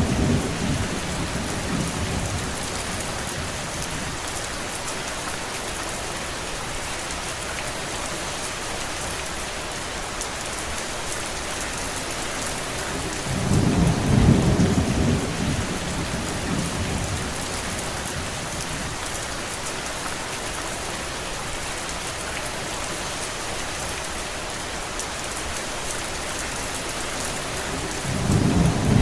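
Steady heavy rain, an even hiss, with a low rumble swelling up and dying away three times: at the start, about halfway through and near the end.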